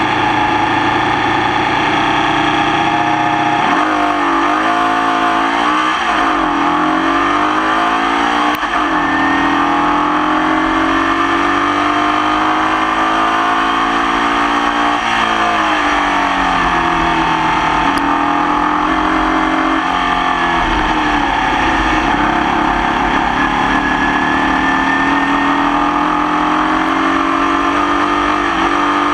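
Formula Vee race car's air-cooled Volkswagen flat-four engine at racing speed, its pitch climbing and falling over and over as it revs up and drops back through gear changes and braking. It runs with a misfire.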